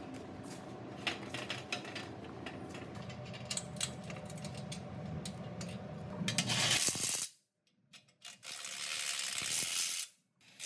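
Small metal parts clinking and tapping over a low steady hum. About seven seconds in, this gives way to loud hissing in stretches that start and stop abruptly.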